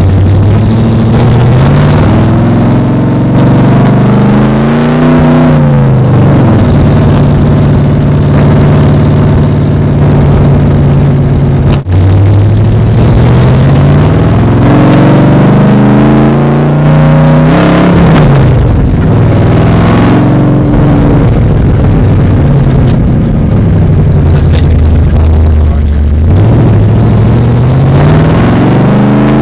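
Ford 302 HO V8 in a 1960 MGA, heard from the cockpit while driving. The engine note climbs in pitch under acceleration and falls back several times. The sound drops out for an instant about twelve seconds in.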